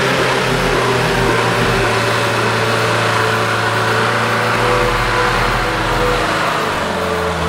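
A car engine running hard at steady revs under a loud rushing noise, as a vehicle takes an off-road climb with a run-up.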